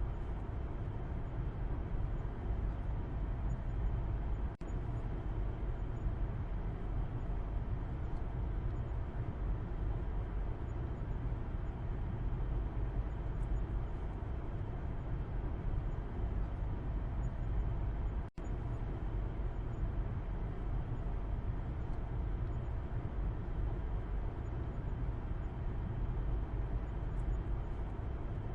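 Steady low rumble of road and engine noise heard from the back seat inside a moving car. It is broken once by a split-second gap about two-thirds of the way through.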